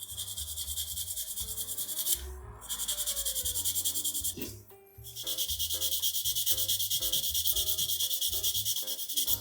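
Sanding or filing a small plastic model-kit part with quick back-and-forth strokes, about six a second, cleaning up where it was cut from the sprue. The strokes come in three runs, pausing briefly about two seconds in and again around four and a half seconds in.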